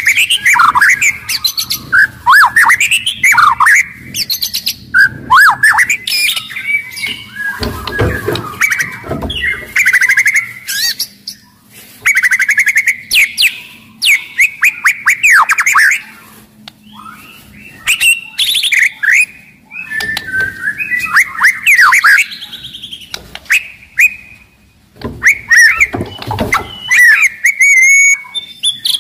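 White-rumped shama singing loudly: fast, varied phrases of sweeping whistles mixed with sharp clicking and rattling notes, in bursts broken by short pauses.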